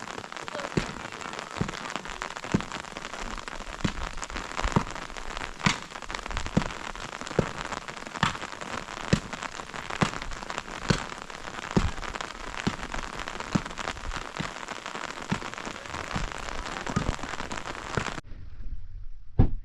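Heavy rain falling steadily, with single loud drips landing on a hard surface in an even rhythm, a little more than once a second. The rain noise cuts off abruptly near the end, leaving a couple of isolated knocks.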